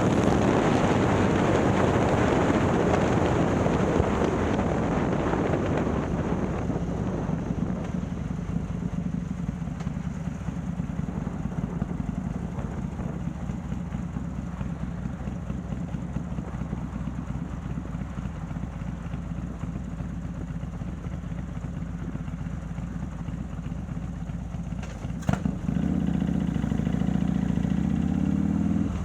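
Harley-Davidson Milwaukee-Eight V-twin, bored out to 130 cubic inches and breathing through a ThunderHeader exhaust, running on the road under wind rush. The rush and engine are loudest at first and ease off over several seconds. Near the end a sharp click is followed by the engine pulling harder, its pitch rising.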